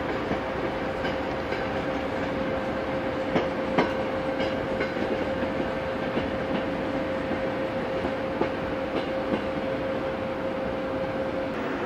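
Passenger train coaches rolling along the track through a station with a steady hum and irregular wheel clicks, two louder knocks a few seconds in.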